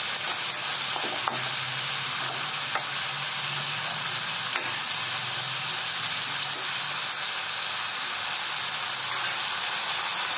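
Snails in their shells frying in oil with a ground spice paste in a pan: a steady sizzle with scattered small crackles and pops.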